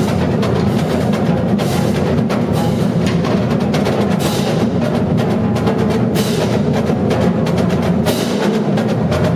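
Marching drumline playing: snare, tenor and bass drums in a fast, dense rhythm, with loud sharp accents every second or two.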